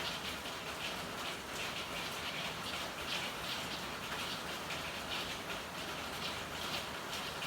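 Steady rain falling, with a dense, uneven patter of drops over a constant hiss.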